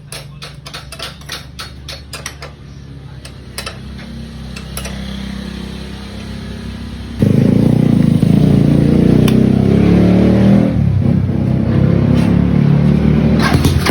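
Motorcycle engine, a Rusi converted to a Raider cylinder head, running through a loud aftermarket muffler: idling with a run of sharp ticks over the first few seconds, then revved hard about seven seconds in, easing off near eleven seconds and revved again near the end.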